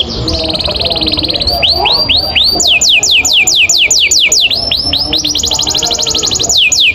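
Domestic canary singing a long continuous roll: a very fast trill, then runs of rapidly repeated falling whistled notes, about five a second, that switch to a higher, faster trill and back again.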